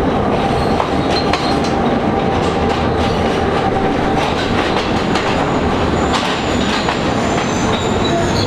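A diesel-hauled passenger train pulling into the station right alongside, locomotive and carriages rumbling past with wheels clicking over the rail joints. A thin, high wheel squeal comes in over the last couple of seconds.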